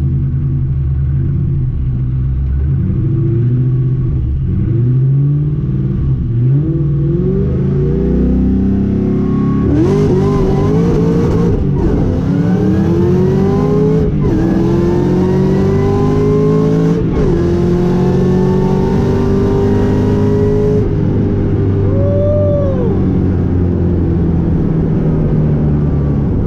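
Supercharged Ford Mustang engine heard from inside the car on a drag strip pass. It revs in short rises at the start line, then launches about ten seconds in and climbs in pitch through three upshifts. About twenty seconds in the throttle is lifted and the engine drops to a coast, with one short rev blip.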